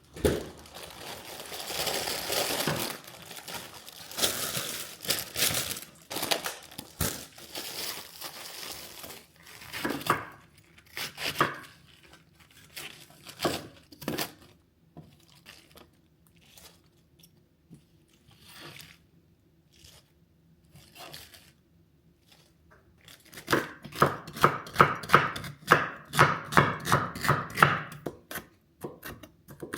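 Kitchen preparation sounds: packaging crinkling and tearing for the first several seconds, then scattered light taps, then near the end a steady run of knife strokes on a cutting board, about three a second.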